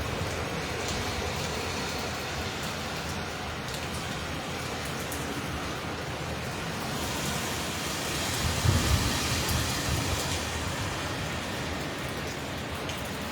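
Hurricane wind and rain in a steady roar. A stronger gust swells about seven seconds in, buffeting the microphone with a deep rumble, then eases.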